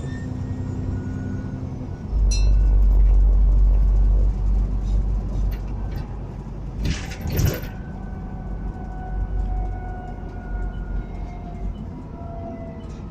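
Alexander Dennis Enviro 400 double-decker bus engine running with its turbocharger whistling, thin whistling tones that slowly slide in pitch. A heavy low rumble swells about two seconds in and eases after about two seconds. There is a short burst of hissing noise around seven seconds in.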